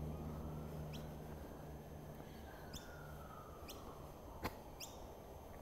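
Several short, high bird chirps over a faint outdoor background, with one sharp click about four and a half seconds in.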